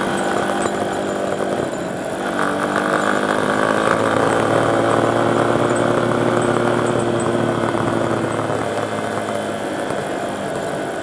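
Small dirt bike's engine running under way at cruising speed, its note shifting a couple of seconds in and then holding steady.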